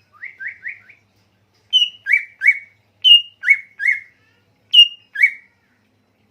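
A songbird singing clear whistled notes from a masteran birdsong recording. Three quick rising notes open it. About a second later come three phrases, each a high falling note followed by one or two lower rising notes, the last phrase shorter.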